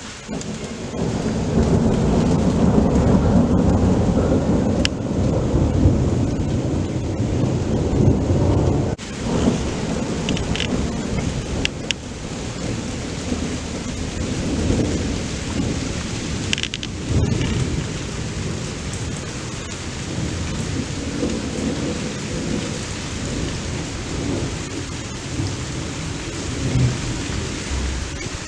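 Thunder rumbling long and low over steady rain, loudest for the first several seconds, then falling off suddenly to a softer, drawn-out rumble. A few sharp ticks sound through the rain.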